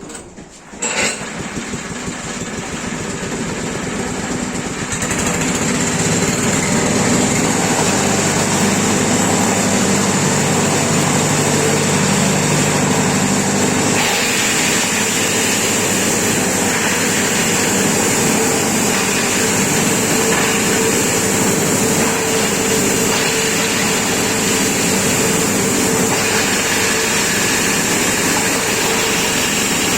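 Engine-driven grass chopper machine, being tried as a corn-cob grinder, starting up about a second in. It comes up to speed over the next few seconds, then runs steadily and loudly. Its sound shifts at about the middle.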